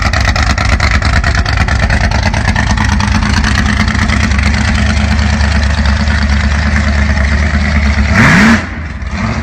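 Modified Volkswagen engine running loud with a rapid pulsing exhaust beat. About eight seconds in it revs up briefly, rising in pitch, then cuts off suddenly.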